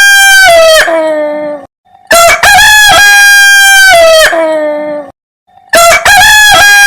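Rooster crowing cock-a-doodle-doo, over and over: a crow ending, one full crow about two seconds in, and another starting near the end. Each crow holds a steady high note and then drops in pitch at the end.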